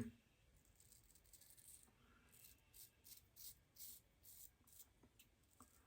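Near silence, with faint scattered ticks and light rustles, about a dozen in all.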